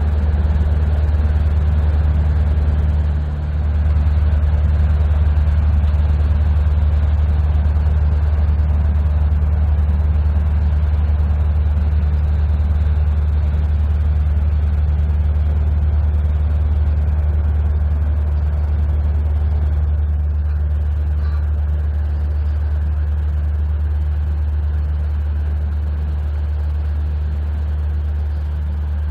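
Diesel engine of a passing inland motor vessel, a steady low drone that eases off slowly in the last part.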